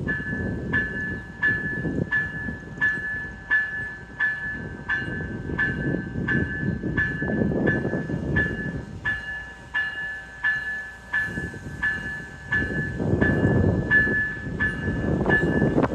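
Railroad warning bell ringing steadily, about three strikes every two seconds, over the low rumble of an Amtrak train.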